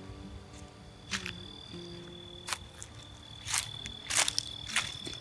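A steady high-pitched insect trill, like a cricket's, with five short sharp chirps or clicks over it.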